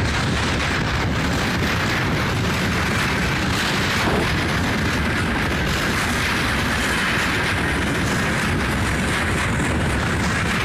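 Freight train wagons rolling past at close range, a loud steady rumble and rattle of wheels on rails.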